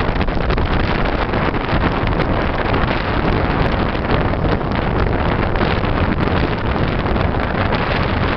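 Sea surf washing onto the beach, a steady rush of breaking waves, with heavy wind rumble on the microphone.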